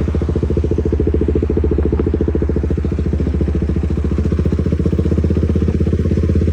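KTM motorcycle engine and exhaust running steadily while riding, with an even, rapid pulsing beat and a low rumble throughout.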